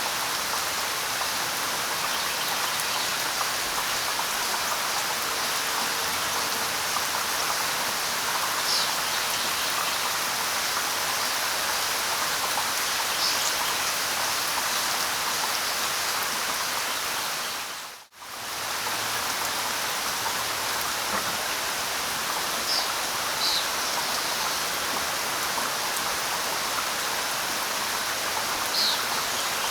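Steady light rain pattering on leaves, with a few short, high bird chirps here and there. The sound fades out for a moment a little past halfway and comes straight back, a loop join in the recording.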